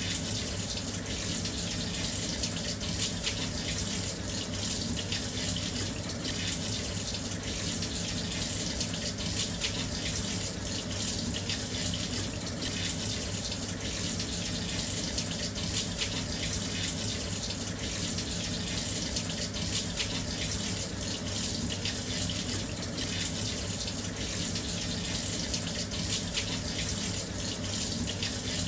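Washing machine filling with water: a steady, unbroken rush of water running in.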